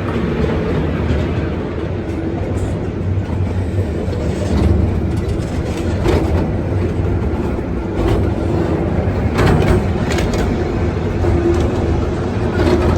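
Park ride-on train rolling along its track, heard from one of its open-air cars: a steady rumble of wheels on rails, with a few sharp clicks from rail joints in the second half.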